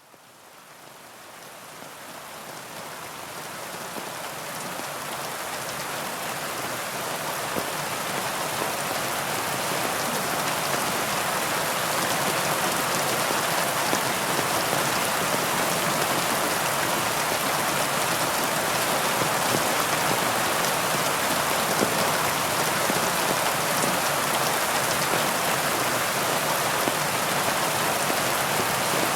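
Heavy rain pouring steadily. It fades in gradually over the first ten seconds or so and then holds at an even level.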